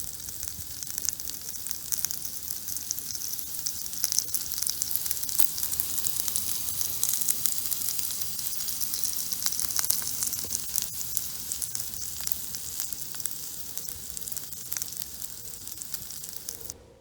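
Bacon, sausage and ham frying in a pan, a steady sizzle with small crackling pops, cutting off abruptly near the end.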